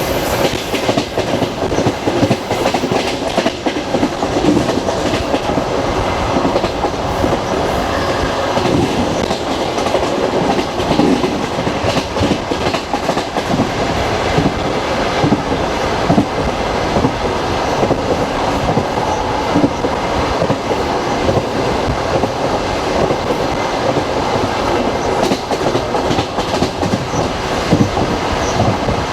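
Express passenger train running on the rails, heard from a carriage window: a steady rumble of the wheels with the clickety-clack of rail joints.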